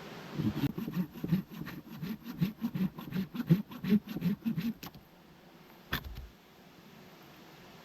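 Wood being worked by hand with quick rhythmic strokes, about four to five a second, for some four seconds, then a single sharp knock.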